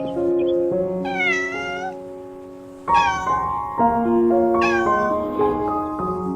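A cat meowing three times, about a second in, near three seconds and near five seconds, over steady background music.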